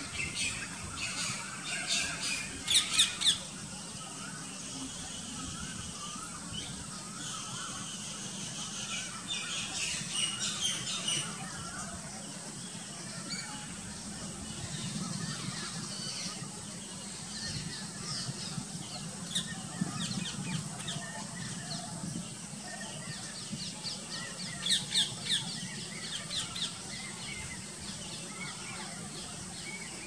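Birds calling in three bursts of quick, repeated calls: the loudest about three seconds in, another around ten seconds in and one near twenty-five seconds in, over a faint steady high-pitched tone.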